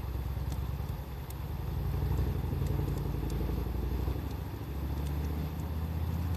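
Wood fire crackling with scattered sharp pops, over a loud low rumble that swells and shifts.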